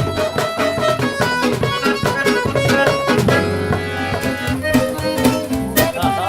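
Live band playing an instrumental passage of traditional-style music, with held melodic notes over a steady percussion beat.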